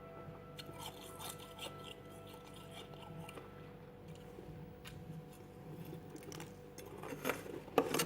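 Freezer frost being bitten and chewed: close, crisp crackling crunches, with the loudest bites coming a little before the end.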